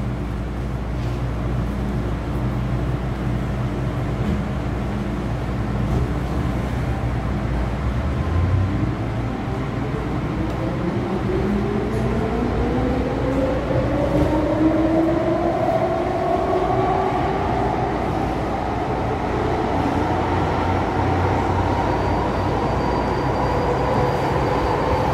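MTR M-Train electric multiple unit running in a tunnel, its traction motors whining with a pitch that rises steadily through the second half as the train accelerates, over steady low running noise.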